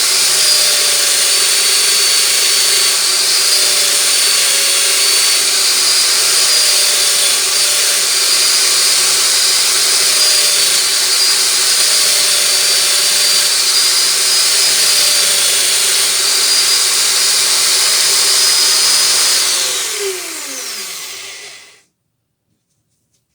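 Electric power tool running steadily at full speed with a high whine, then switched off: its pitch falls as it spins down, ending in silence near the end.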